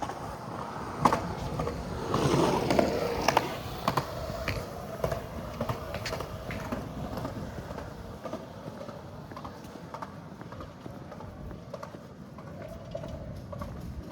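Clattering with irregular sharp clicks and knocks, loudest about two to three seconds in, then thinning out over a steady outdoor background.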